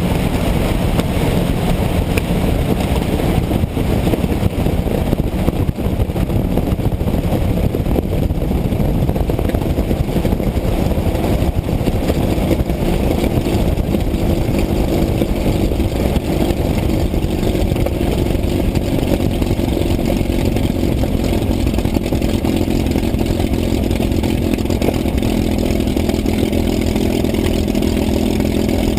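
Piston aircraft engine running steadily, its note growing stronger about halfway through as the power rises.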